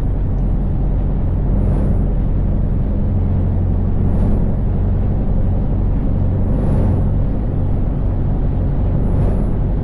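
Scania V8 lorry engine running steadily under a full load, heard from inside the cab as a low, even drone. A soft hiss recurs about every two and a half seconds.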